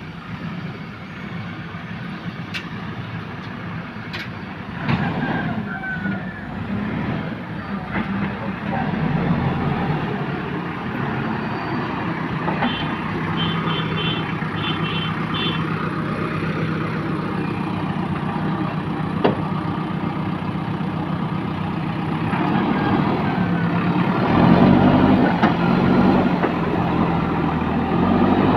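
JCB backhoe loader's diesel engine running steadily under work, with scattered knocks and clanks. A run of short high beeps sounds about halfway through, and the engine revs up near the end.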